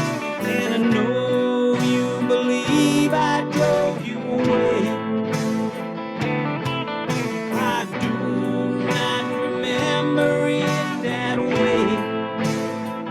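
Guitar instrumental break: plucked guitar chords under a lead guitar melody with sliding, bending notes.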